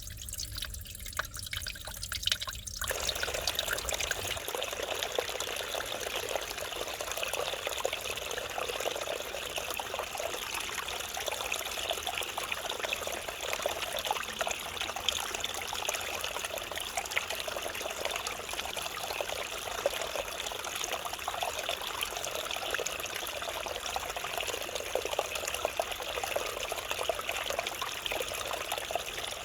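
Mountain valley stream of water flowing and trickling over rocks. For the first three seconds or so it comes as separate drips and trickles, then it turns into a continuous, steady babbling flow.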